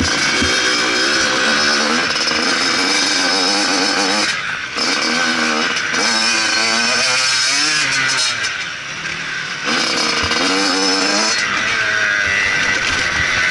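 Motocross bike engine revving hard, its pitch rising and falling with the throttle. The throttle is closed briefly about four and a half seconds in, and again for about a second and a half near the middle.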